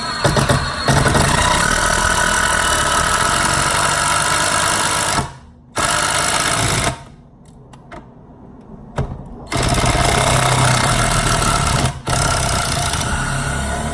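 Ryobi P234C brushed 18-volt impact driver hammering as it drives a fastener in, in several bursts: one run of about four seconds, a short one, then after a pause a run of about two and a half seconds and a short one near the end.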